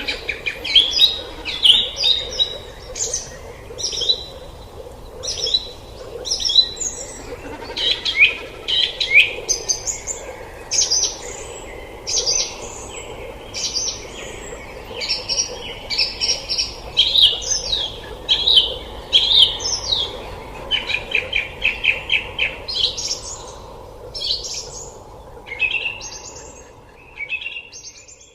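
Several forest birds calling and chirping, their short, repeated calls overlapping, over a steady background noise. The birdsong fades out at the very end.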